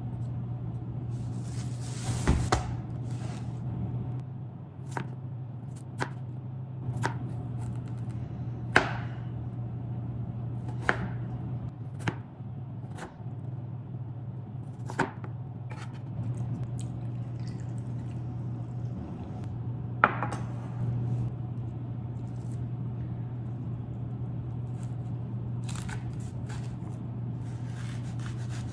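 Knife cutting on a cutting board: slow, irregular single chops, about one every second or two, over a steady low hum.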